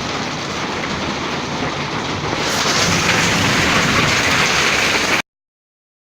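Hail and rain pelting down in a steady hiss, growing heavier about two and a half seconds in, then cutting off suddenly near the end.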